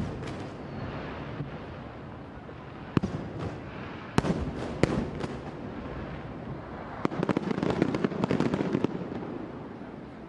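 Aerial fireworks bursting over open water: several separate sharp bangs, then a quick run of rapid crackling bursts about seven seconds in that fades away near the end.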